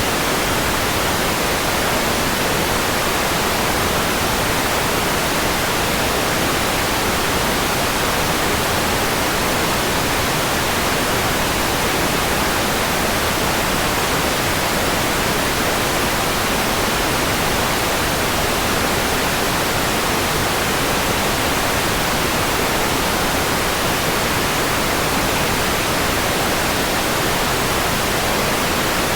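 Steady white noise: an even, unchanging hiss spread across the whole range from deep to very high.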